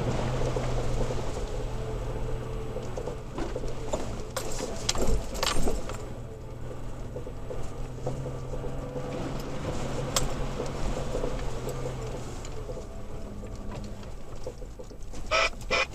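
Toyota Tacoma pickup's engine running at low trail speed, heard from inside the cab, with knocks and rattles as the truck jolts over a rough dirt track. The sharpest knocks come about five seconds in and again near the end.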